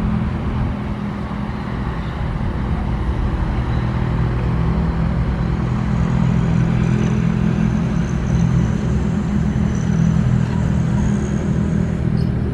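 SANY SY135F excavator's diesel engine running steadily under load. A faint high whine joins about halfway through.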